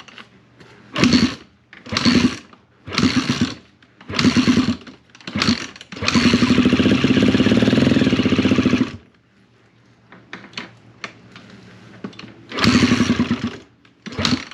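Freshly rebuilt 2006 KTM 250 SX-F single-cylinder four-stroke dirt bike engine being started: short firing bursts about once a second, then it catches and runs for about three seconds before dying, then more short bursts near the end. The engine still needs a little carburettor tuning.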